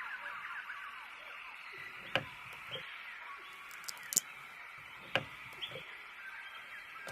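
Steady ambience of small birds chirping high and continuously, with a few sharp taps about two, four and five seconds in.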